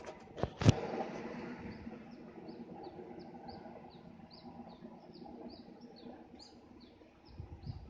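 A sharp clank about half a second in, then a bird chirping over and over in short high notes, about two or three a second, over a low steady rumble.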